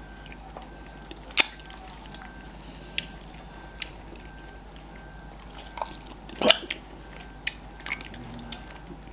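Eating sounds at a fufu and okra soup meal: a few scattered wet mouth clicks and smacks, the loudest about six and a half seconds in, over a low steady room hum.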